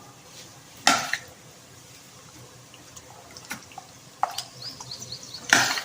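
A spoon scraping and stirring in a pan of onions frying in oil and butter: two loud scrapes, about a second in and near the end, with a few small pops and clicks between.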